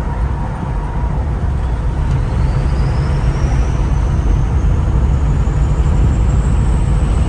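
Ford 6.0 Powerstroke turbo-diesel V8 with a straight delete pipe, pulling under acceleration with a deep growl, heard from inside the cab. From about two seconds in, a turbo whistle rises steadily in pitch as the turbo spools up.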